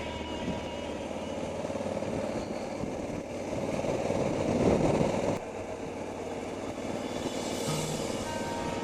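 Honda CRF1100 Africa Twin's parallel-twin engine running on the road, with wind and road noise. The sound swells about four seconds in and drops off sharply just past halfway.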